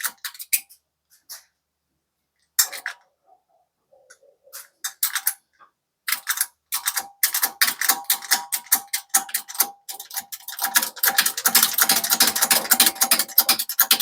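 Shop press being worked to push a rubber bush out of a shock absorber's mounting eye, with ratchet-like clicking. The clicks come only now and then at first, then about six seconds in turn into a fast, continuous clicking with a faint ring.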